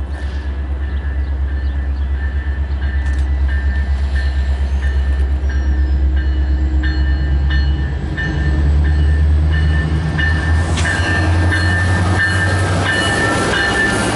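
Diesel-hauled train passing close by, the locomotive's engine making a heavy low rumble that grows louder about eight seconds in, with rising wheel and rail noise near the end.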